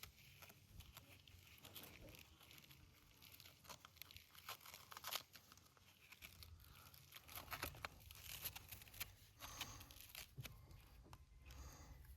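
Faint rustling and crinkling of a sheet of sandpaper being handled and fitted into the clamps of an orbital sander's pad, with scattered light clicks, one sharper about five seconds in.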